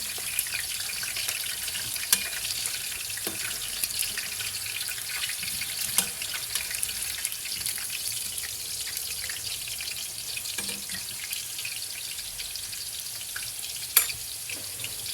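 Potato pieces shallow-frying in hot oil: a steady sizzle with sharp pops and crackles now and then, a louder one near the end.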